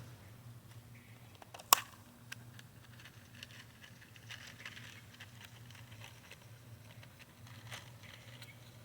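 Faint handling sounds of a prepackaged trotline and its metal hooks: small clicks and soft rustling, with one sharp click a little under two seconds in, over a low steady hum.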